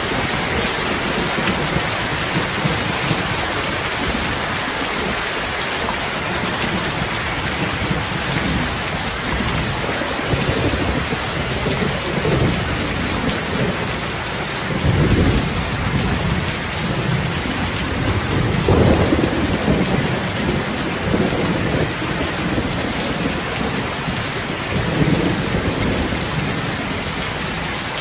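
Steady heavy rain with rolling thunder rumbling low underneath, swelling several times, loudest about halfway through and again near the end.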